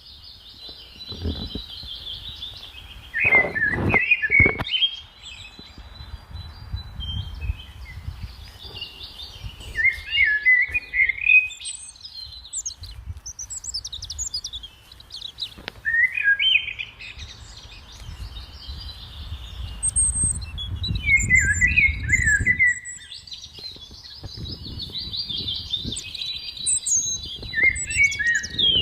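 Songbirds chirping and singing in quick, high trills that come and go throughout. A low rumble rises and falls underneath at times, and a few knocks come about three to four seconds in.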